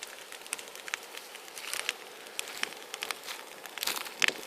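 Large bonfire crackling, with irregular sharp pops and a thicker burst of crackling near the end.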